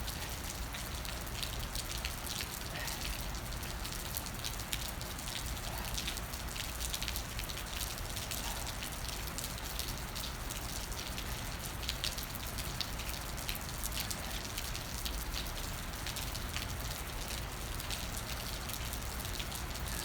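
Steady rain falling, many small drop hits over a constant hiss.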